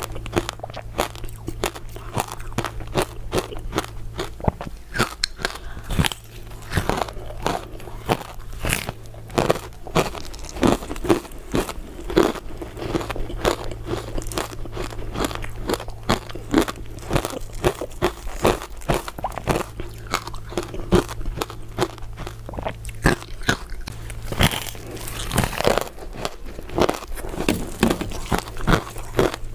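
Crisp crystal ice dessert pieces being bitten and chewed, a rapid string of sharp crunches.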